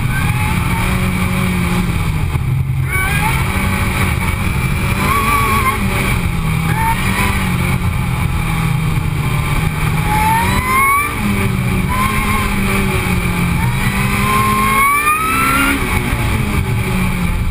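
Supercharged Honda Civic Si coupe (FG2) engine driven hard on an autocross run. It runs loudly under load, and a thin whine rises in pitch several times as the car accelerates between corners.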